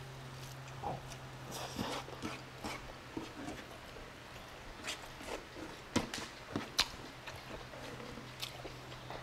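Close-miked eating sounds: wet chewing, lip smacks and sticky mouth clicks of someone eating stewed beef and rice, irregular throughout, over a steady low hum.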